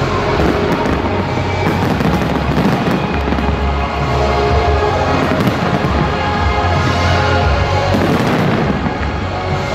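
A fireworks display with shells bursting in a dense, continuous barrage of booms and cracks, mixed with loud music.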